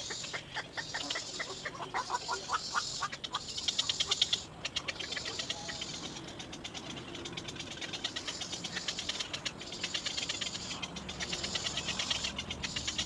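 Nestling bird calling for its parent: bursts of rapid, high-pitched repeated calls broken by short pauses.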